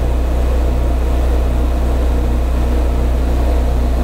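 Metal lathe running steadily under power with its half-nut engaged for threading: a constant low motor hum with a faint regular pulse from the drive.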